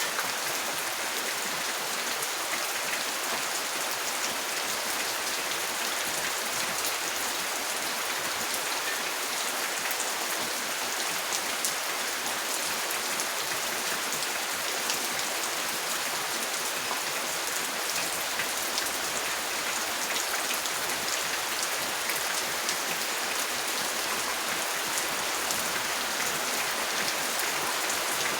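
Steady rain falling: an even hiss dotted with many fine, sharp drop ticks, unchanging throughout.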